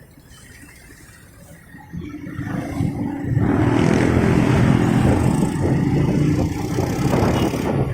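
Motorcycle engine pulling away: fairly quiet for about two seconds, then the engine note rises and grows loud from about three seconds in, with a broad rush of noise over it.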